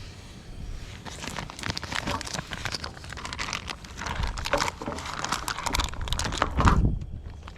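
Crinkling and rustling with many small clicks, and a louder low thump a little before the end.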